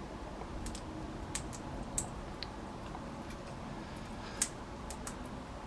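Scattered faint, sharp clicks, about nine of them at irregular intervals, from a female Australian king parrot cracking and husking sunflower seeds at a feeding table. A soft steady low background hum runs underneath.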